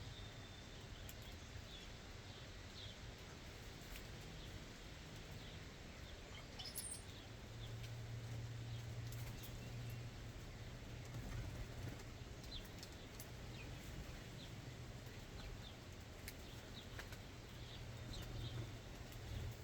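Backyard birds giving faint, scattered short chirps, with occasional light clicks and wing flutters, over a low steady hum.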